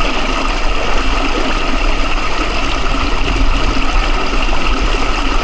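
Steady rushing of water, an even noise with a constant low rumble underneath.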